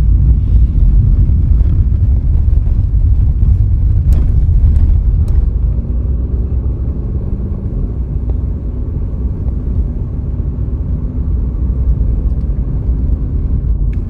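A car driving along a road: steady low rumble of road and engine noise. A faint engine hum becomes audible about halfway through, and there are a couple of light clicks shortly before it.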